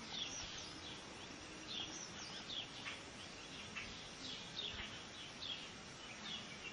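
Small birds chirping: short, high, downward-sliding chirps about once or twice a second, over a steady hiss of ambient noise.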